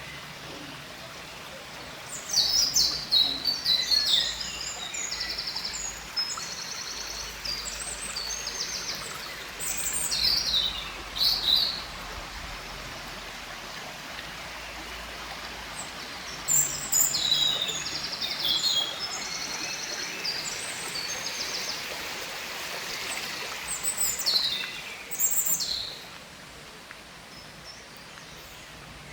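Songbird song: phrases of fast trills and chirps over a steady outdoor background hiss. One bout starts about two seconds in, a second begins about halfway through, and a shorter burst comes near the end.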